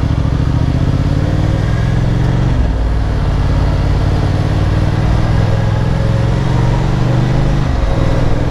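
Motorcycle engine accelerating up through the gears, its pitch rising, then dipping briefly at an upshift about two and a half seconds in and again near the end, over a steady rush of wind.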